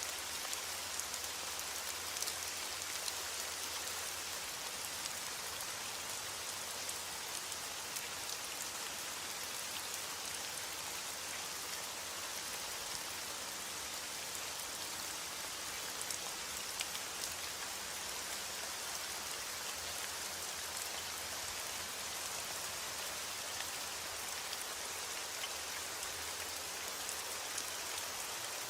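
Steady rain falling on a surface, an even hiss with scattered sharper drop ticks and no thunder.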